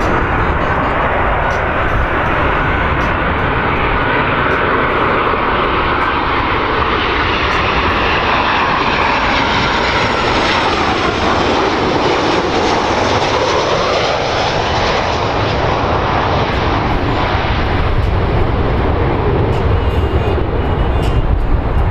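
Boeing 737-800 airliner's CFM56 jet engines during landing, passing close by: a steady jet roar with a whine that sweeps down and back up about halfway through as the aircraft goes past, and a low rumble that grows near the end.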